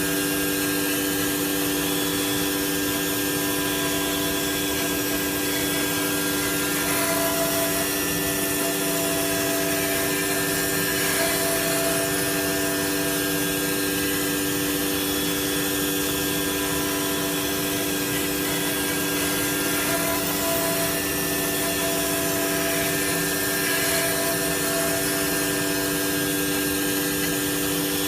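Three-axis CNC router spindle running at about 18,000 rpm while its bit machines a decorative pattern into a wooden door panel: a steady whine over the hiss of the cutting.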